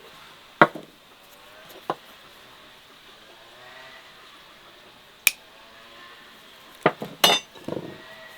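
Dishes and utensils clinking and knocking against each other: single sharp clinks about half a second in, near two seconds and around five seconds, then a quick cluster of clatter near the end.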